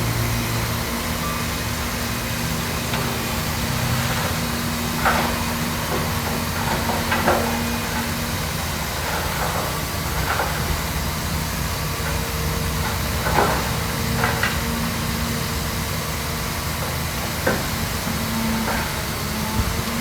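Heavy diesel earthmoving machinery running steadily, with about half a dozen short knocks or clatters scattered through.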